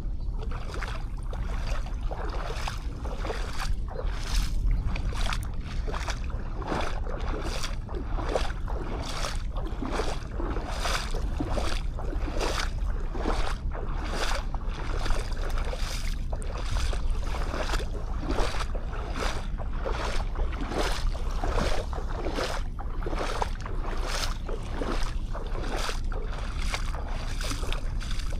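Footsteps crunching on sand at a steady walking pace, about two steps a second, over a steady low rumble of wind on the microphone.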